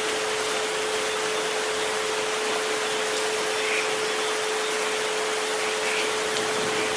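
Steady rain hiss with a continuous pure tone around 432 Hz laid over it, plus a fainter higher tone near 528 Hz that stops about six seconds in.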